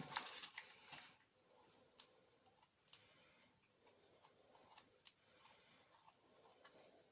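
Faint scraping and scattered light clicks of a metal awl stirring thick two-part epoxy glue. The loudest scraping comes in the first second, followed by a few isolated ticks.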